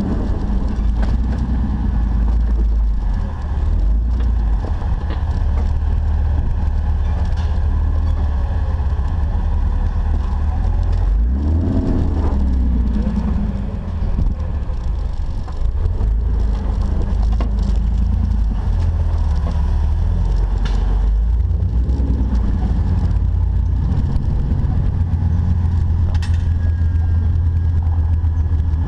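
Off-road Jeep's engine running at low revs while crawling, with a brief rev up and back down about twelve seconds in.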